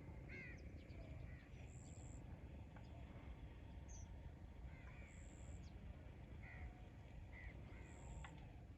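Faint outdoor birdsong: short, arched bird calls repeated every second or so, with brief high thin whistles every few seconds over a low background hum of open country.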